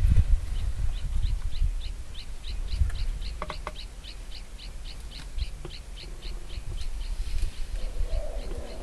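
A bird calling a long, even series of short high notes, about four a second, over a low rumble.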